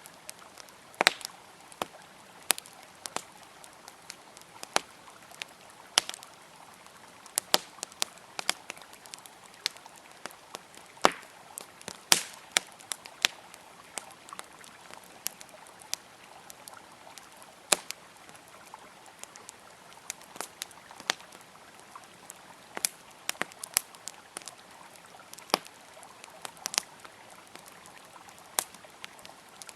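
Wood campfire crackling with irregular sharp pops, over a steady rush of flowing river water.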